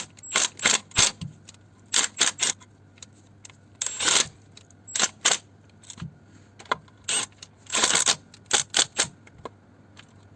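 Ratchet wrench clicking in short bursts of rapid strokes, with pauses between, as oil sump bolts are pulled up and tightened.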